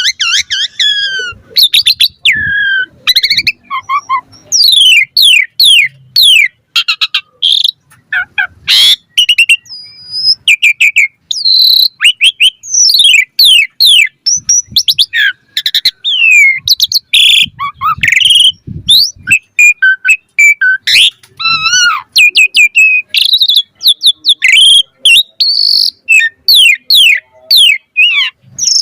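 Asian pied starling (jalak suren) singing vigorously in its puffed-up 'mompa' display: a loud, fast and varied run of sharp downward-sweeping whistles, chattering phrases and squeaky notes with short pauses between bursts.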